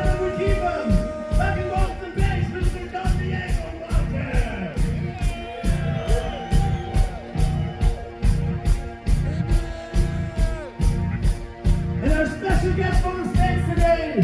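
Live rock band playing, with a fast steady drum beat and held, bending melodic lines over it.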